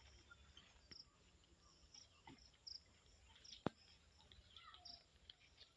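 Near silence: faint short high chirps, about one a second, over a low rumble, with a single sharp click about three and a half seconds in.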